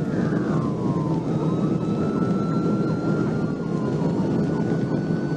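Police patrol car at very high speed in pursuit, heard from inside the cruiser: a dense rush of engine, wind and road noise, over which a siren tone slowly climbs.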